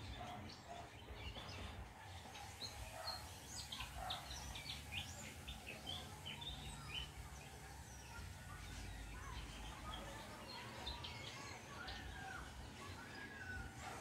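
Wild birds calling in the trees: many short, high chirps scattered throughout, with a few slurred, lower whistled notes near the end, all faint over a steady low background hum.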